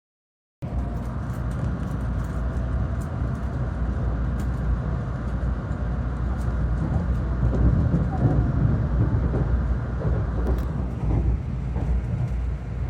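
Cabin noise of a 700 Series RailStar Shinkansen running at speed: a steady, loud rumble of wheels and running gear. The sound cuts out completely for under a second at the very start.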